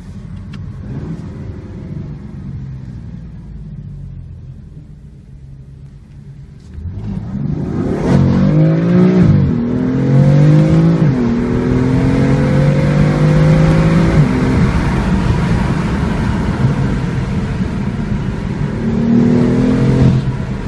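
BMW M4's twin-turbo straight-six heard from inside the cabin: running low and quiet at first, then about seven seconds in going to full throttle under hard acceleration. The engine note climbs and drops sharply at two quick upshifts, then pulls steadily higher again.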